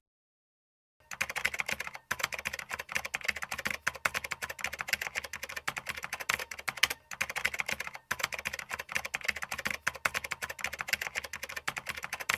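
Typing sound effect: fast, dense clicking of keys that starts about a second in and stops briefly a few times.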